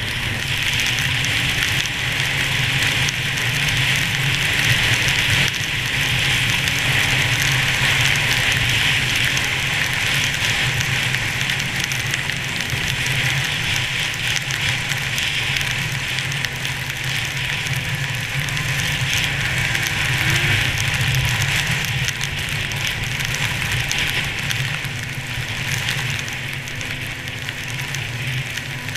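1998 Arctic Cat SRX 700 snowmobile's two-stroke engine running steadily under way, under a continuous hiss of wind and blowing snow.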